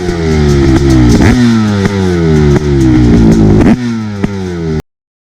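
Honda CR500 two-stroke motocross engine running hard at high revs. Its pitch repeatedly sags and jumps back up, with a sharp crack at several of the jumps. The sound cuts off abruptly near the end.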